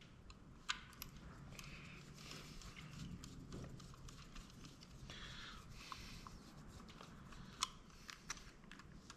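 Faint scraping and a few sharp clicks as a small screwdriver works at the tiny screws of a dome security camera's lens assembly.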